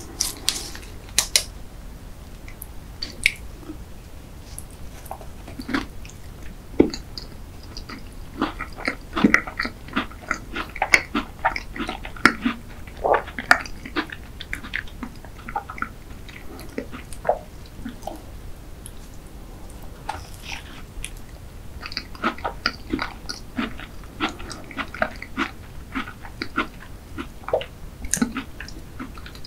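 Close-miked chewing of a cherry cheese tart: wet mouth sounds with small crunches of the pastry crust, coming in two busy stretches with quieter chewing between.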